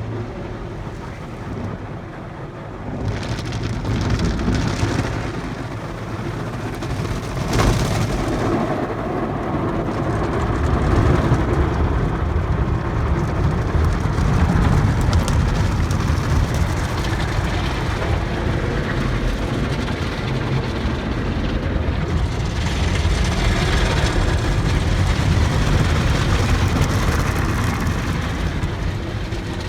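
Ryko Rocket car wash tunnel working on a car: water spraying and spinning brushes scrubbing over the body, over a steady low rumble. There is one sharp hit about seven and a half seconds in.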